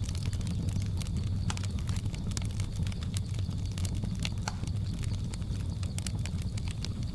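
Wood fire crackling, with frequent sharp irregular pops over a steady low rumble, mixed with faint jungle ambience.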